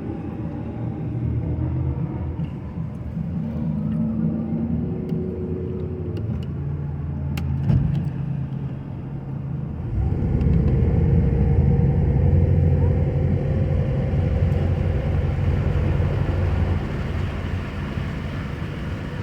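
An engine running steadily, with a few sharp clicks about eight seconds in; from about ten seconds in it runs louder and fuller.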